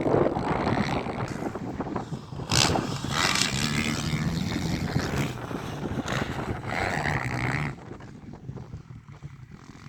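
Motocross bike engines revving on the track, the pitch climbing and dropping, with wind buffeting the microphone. The engine sound falls away about eight seconds in.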